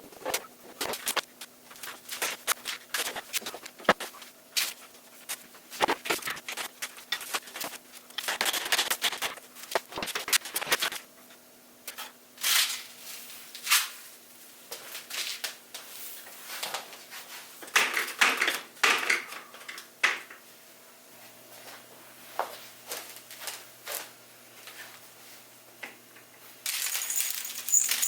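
A cat at play: irregular scratching, rustling and small knocks, with louder scuffles about eight, twelve and eighteen seconds in. A bright metallic ringing comes near the end.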